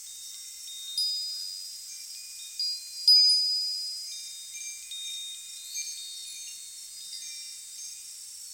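Wind chimes ringing in the breeze: high metallic tones struck at irregular moments, each ringing on and fading, the loudest about three seconds in, over a steady hiss of wind.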